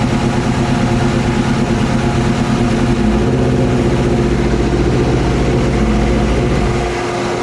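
Kawasaki ZX-12R drag bike's inline-four engine idling steadily, its note shifting slightly about three seconds in and easing a little quieter near the end.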